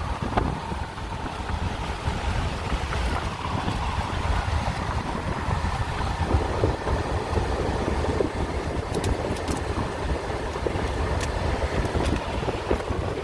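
Wind buffeting the microphone: a steady, gusty rumble.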